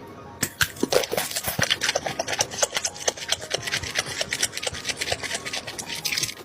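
Close-miked chewing of crispy fried chicken: a dense, irregular run of crunches.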